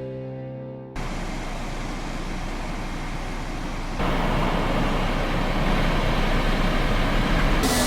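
Piano music fades out. About a second in it is cut off by steady road-vehicle noise, a rumbling hiss of traffic or driving. The noise jumps louder in a sudden step partway through and turns brighter near the end.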